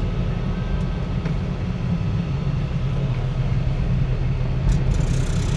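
Steady low drone of a Ford Ranger diesel pickup's engine running.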